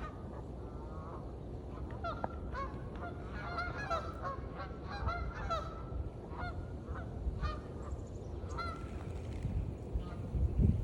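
A flock of Canada geese honking, many short overlapping calls, thickest through the middle, over a steady low rumble that swells briefly near the end.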